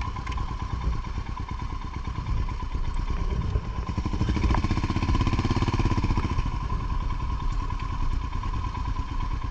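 Motorcycle engine running, its note swelling and rising about four to six seconds in, then easing back, with a steady thin whine alongside.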